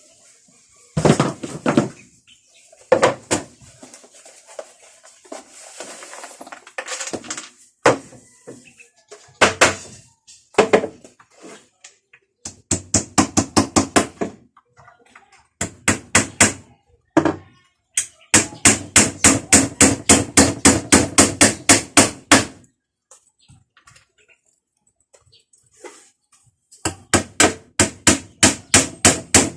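A hammer striking with rapid, even blows, about six a second, in runs of several seconds each, typical of driving nails. Scattered single knocks and thuds of wood come between the runs.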